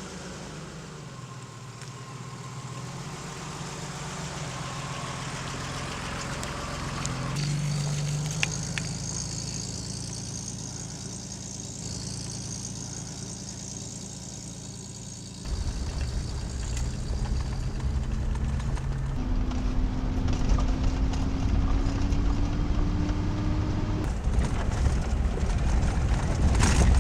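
A vehicle's engine running while driving, as a steady low hum. About fifteen seconds in it becomes a louder low rumble, and the engine pitch climbs slowly for a few seconds near the end.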